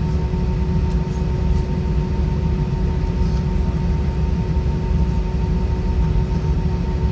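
Steady cabin noise inside an Airbus A320 with IAE V2533 engines: a constant low rumble with two faint steady hums over it.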